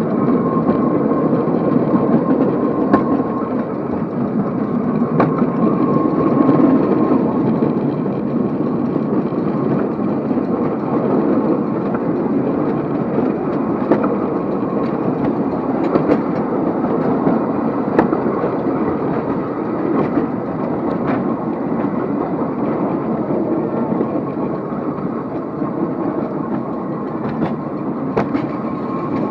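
Amusement park train running along its track: a steady rumble with occasional sharp clicks.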